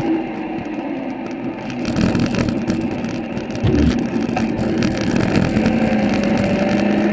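Honda NC750X's parallel-twin engine running while the motorcycle is ridden through city traffic, its pitch rising slightly near the end.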